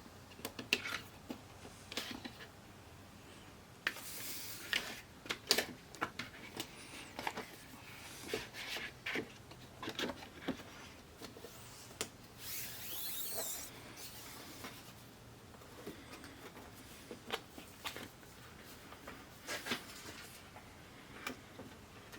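Scattered light clicks, taps and rubbing from parts being handled during a TV teardown, with a longer sliding, rubbing sound about two-thirds of the way through.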